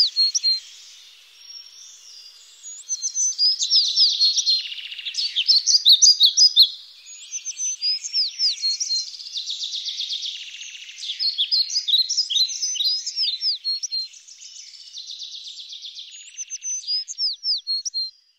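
Small songbird singing in repeated bouts of rapid, high chirps and trills, a new phrase every few seconds with short quieter gaps between.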